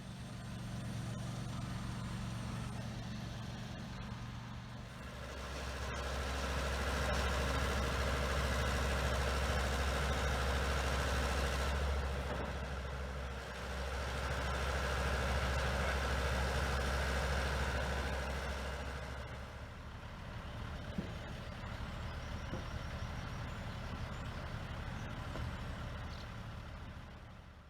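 Heavy diesel truck engine running steadily. It grows louder about five seconds in, holds with a brief dip, settles back down near the end of the second third, then fades out.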